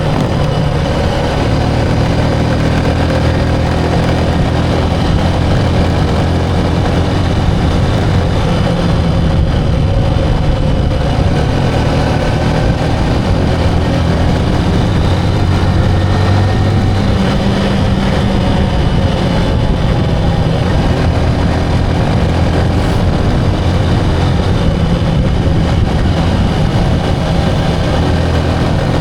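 Motorcycle engine running steadily while riding, its pitch rising and falling slightly with changes in speed.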